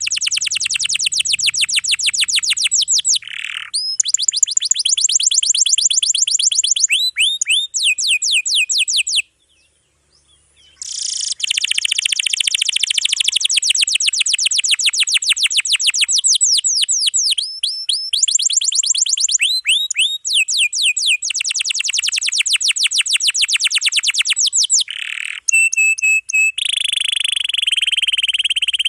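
Domestic canary singing long, rapid trills of repeated notes, switching from one trill to another every few seconds, with a break of about a second and a half about nine seconds in.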